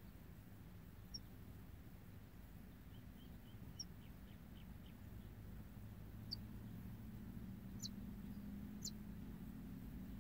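Faint bird chirps: about five short, high single notes spread out, with a quick run of soft ticks in the middle, over a low steady hum.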